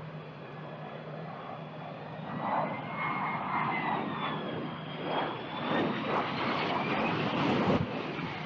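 Jet aircraft engine noise: a rushing roar with a whine that slowly glides up and down in pitch, growing louder a couple of seconds in and easing off near the end.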